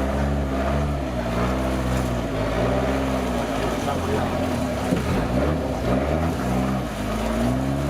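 Off-road 4x4's engine revving up and down over and over, its pitch rising and falling every second or so over a deep rumble.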